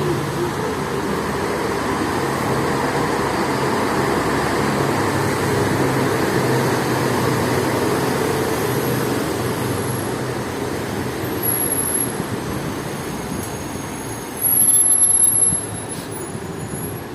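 City street traffic on a wet road: a heavy vehicle's engine swells up and fades away over tyre noise, with thin high-pitched squeals in the second half and a short loud burst about fifteen seconds in.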